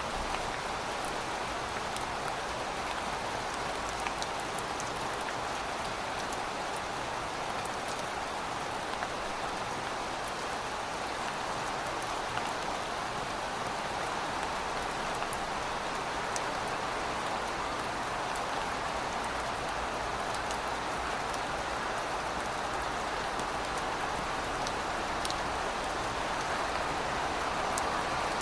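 Steady rain falling, with scattered sharp drop impacts heard over an even hiss.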